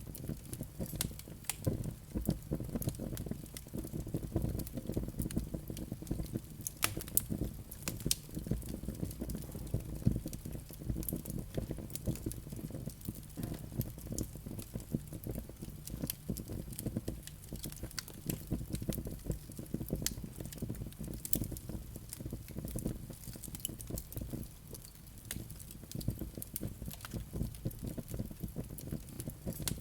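Fireplace fire crackling, with frequent sharp pops and snaps over a low steady rumble of the flames.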